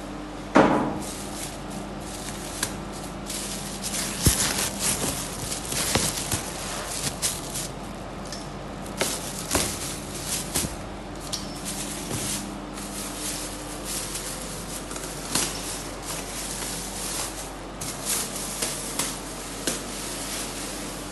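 Packaging being pulled off a mini fridge: irregular rustling and crackling, with many small clicks and one sharp knock with a short ring about half a second in.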